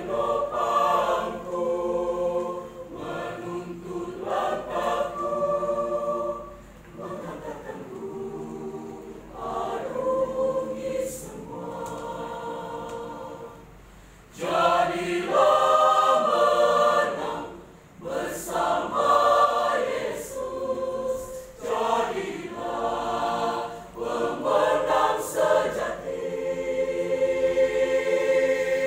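A choir singing a Christian choral song in several parts. The phrases swell and soften, going quieter for a passage and then coming back in louder about halfway through.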